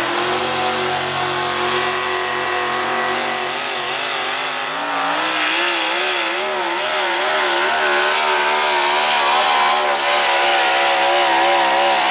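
Modified pulling truck's engine running flat out during a pull, loud throughout. Its revs climb slowly, waver up and down in the middle, then hold higher near the end.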